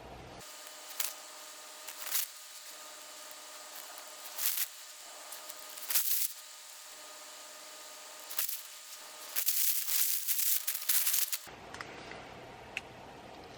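Intermittent rustling and scraping from objects being handled, in short bursts with a longer run of rustling near the end.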